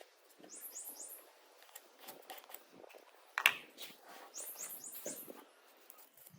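A small bird chirping: two quick runs of four or five high, short notes, about half a second in and again near four and a half seconds in, with a few light clicks and one sharp knock about three and a half seconds in.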